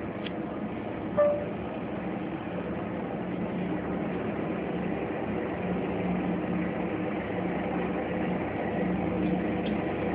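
Helicopter running steadily as it lands, heard muffled through the building's windows as a continuous hum, with a short sharp sound about a second in.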